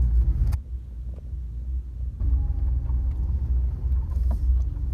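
Low engine rumble of a big truck heard from inside the cab while driving; it eases about half a second in and returns around two seconds in.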